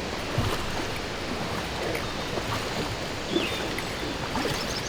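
Water washing and splashing around a kayak as it is paddled on flat water, over a steady hiss, with a few soft knocks and a brief high chirp about three and a half seconds in.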